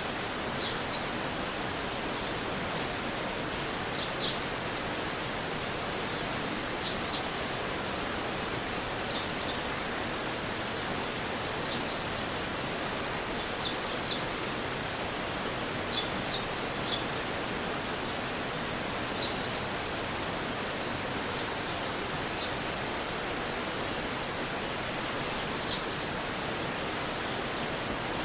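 Stream water rushing steadily, with short high chirps, often two or three together, every couple of seconds.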